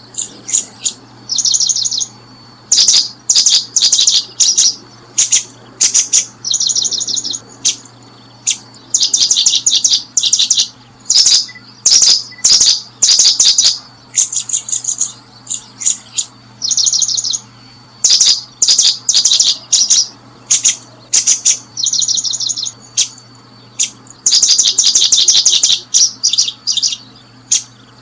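Small bird giving loud bursts of rapid, high chirps, each burst half a second to a second long and repeated every second or two, over a faint steady low hum.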